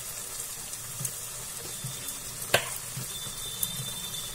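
Tomato-onion masala sizzling and bubbling in a kadhai, a steady soft hiss with a few light clicks, the sharpest about two and a half seconds in.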